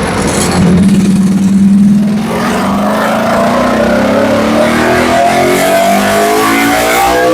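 Ducati Panigale V4 SP2's V4 engine through a full titanium Akrapovic exhaust, run on a dyno: a steady loud note for about two seconds, then the revs climb smoothly and continuously under load in a dyno pull.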